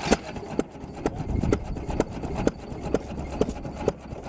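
Hit-and-miss gas engine running, with an even knock about twice a second over a low rumble.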